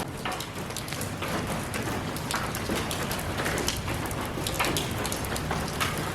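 Steady rain falling, an even hiss with many separate drops striking close by, sharp and irregular, several a second.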